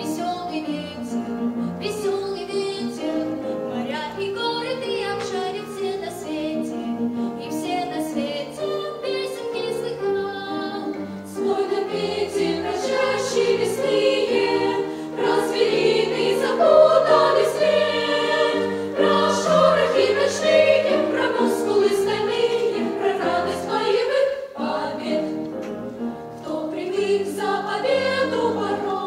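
Female solo voice singing a song with musical accompaniment; the sound grows fuller and louder about eleven seconds in.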